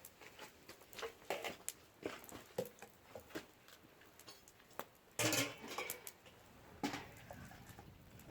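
Scattered clicks and knocks of cookware and utensils being handled, with a louder clatter about five seconds in and another knock a little under two seconds later.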